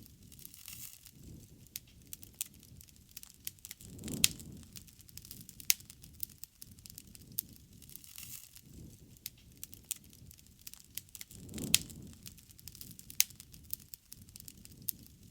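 Bonfire crackling, with frequent sharp snaps and pops of burning wood and a soft low rush of flame that swells twice, about four seconds in and again near the end.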